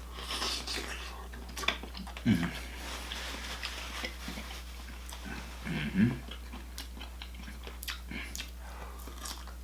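Close-miked chewing and wet mouth sounds of someone eating broccoli in a buttery seafood boil sauce: scattered clicks, smacks and crackles. Two short louder low sounds come about two and six seconds in.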